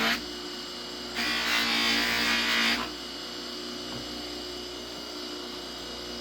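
Bench buffer motor running with a steady hum, with a leather edge pressed against the spinning buffing wheel once for about a second and a half, giving a louder, rougher rubbing sound, to buff the edge smooth.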